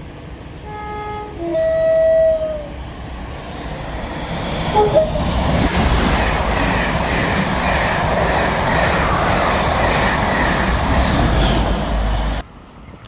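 Train horn sounding two notes: a short lower note, then a louder higher note that sags slightly as it ends, with a brief third toot about five seconds in. The train then passes, its running noise building to a steady rush that cuts off suddenly near the end.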